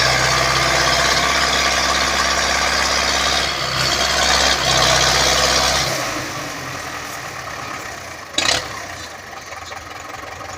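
Tractor engine running loudly with a steady low note; about six seconds in the low engine note cuts out, leaving much quieter noise, and a single short sharp clack follows a couple of seconds later.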